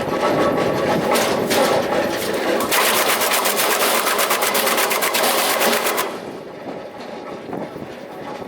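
Electric drum wood chipper (REMET RPE 200, 22 kW) chipping sawmill slabs and board offcuts: a dense, rapid crackle of wood being cut into chips. It is loudest from about three to six seconds in, then drops to a quieter run.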